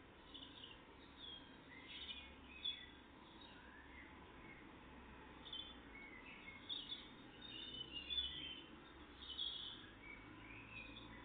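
Faint songbirds chirping and singing in short calls scattered throughout, busiest in the second half, over a low steady background rumble.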